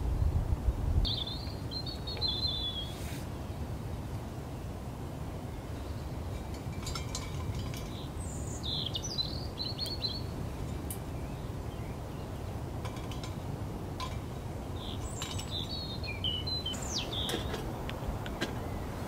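Wind buffeting the microphone as a steady low rumble, gustier in the first second, while a small songbird sings three short warbling phrases.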